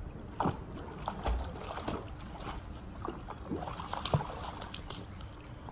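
Pool water splashing and sloshing in short, irregular splashes as a husky moves and paddles on the submerged pool steps.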